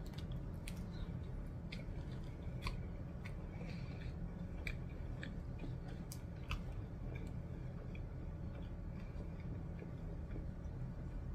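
A person chewing a mouthful of cheeseburger close to the microphone: scattered short mouth clicks, a few every second, over a steady low hum.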